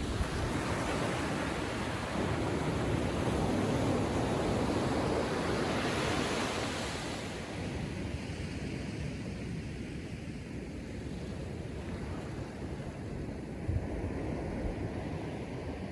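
Calm Atlantic surf washing onto the beach: a wave swells and breaks in the first few seconds, then the wash eases to a softer, steady hiss.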